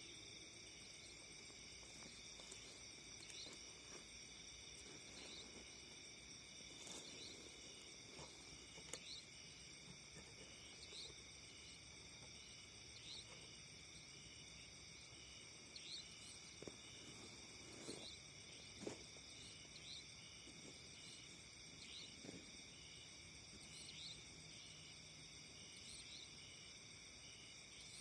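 Faint, steady chorus of crickets and other insects in high, unbroken trills, with a few soft taps or rustles here and there.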